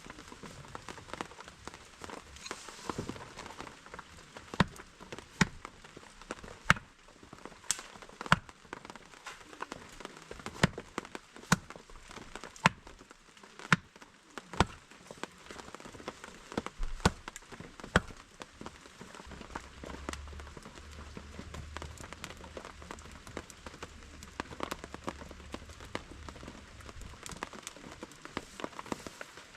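Steady rain pattering, with a wood campfire crackling and giving off sharp, irregular pops.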